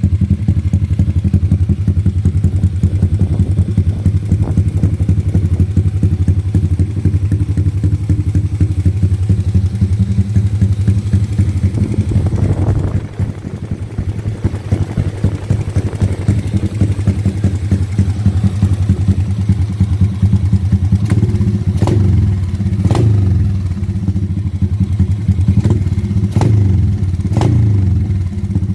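Drag bike engine with an open pipe running loud and pulsing at idle. About halfway through it briefly drops off. From about three-quarters of the way in, the throttle is blipped in a string of short, sharp revs.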